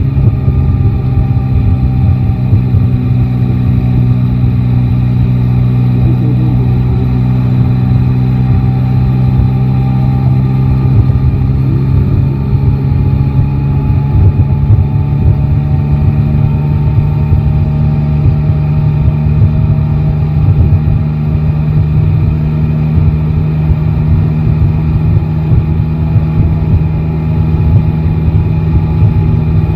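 Yamaha Tracer 9 GT's 890 cc inline-three engine running loud at nearly steady revs while the motorcycle cruises.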